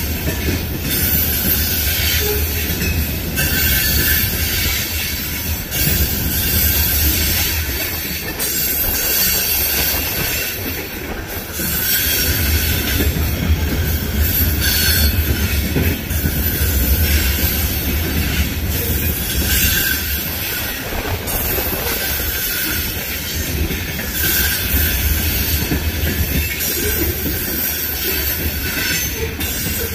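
Covered hopper cars of a Union Pacific grain train rolling past, steel wheels squealing high on the rails over a steady deep rumble.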